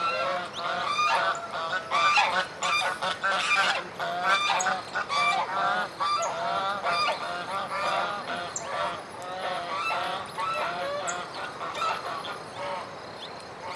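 A group of birds calling together, many short overlapping calls running without pause.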